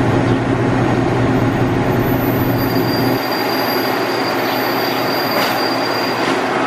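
Train moving along the rails at the station: a loud, steady rumble of wheels on track. A thin, high wheel squeal is held for a few seconds in the middle, and a low hum cuts out about three seconds in.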